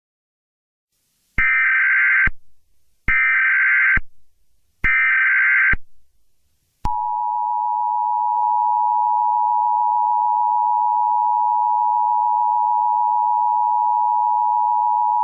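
Emergency Alert System header: three short bursts of digital data tones, then the steady two-tone EAS attention signal, which sounds for about eight seconds. This tone sequence announces the start of an emergency alert.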